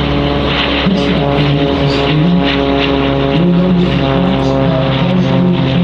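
Propeller aircraft engines droning steadily overhead, a continuous hum with several steady tones and a slight wavering in pitch.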